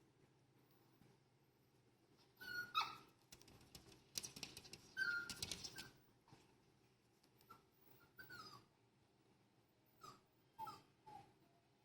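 A young puppy whimpering and whining in short, faint cries, again and again, as it is kept where it was told to stay. A stretch of rustling noise comes about halfway through.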